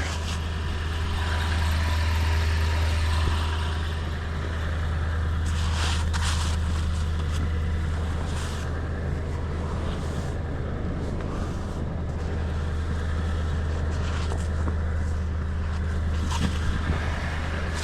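Vehicle engine idling steadily while it warms up in the cold, with a few knocks about six, eight and sixteen seconds in.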